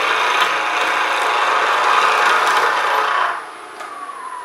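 A skew chisel cutting an oak spindle on a fast-spinning wood lathe: a loud, steady shaving hiss that stops abruptly a little over three seconds in. After it comes a fainter whine falling in pitch as the lathe slows.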